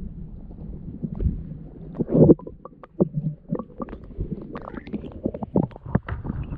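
Kayak being paddled: water splashes and short knocks of the paddle and gear against the hull, over a low rumble on the microphone, with a louder splash about two seconds in.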